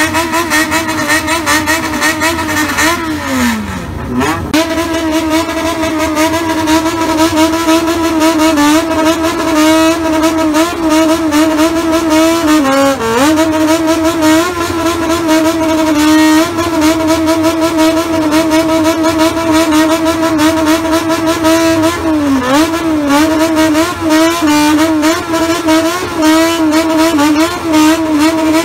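Bosozoku-style custom motorcycle engines revved hard, held at high revs while the throttle is worked in quick rhythmic blips, with a few deep drops in pitch as the throttle is snapped shut and opened again. Two bikes are heard in turn, the change coming about four seconds in.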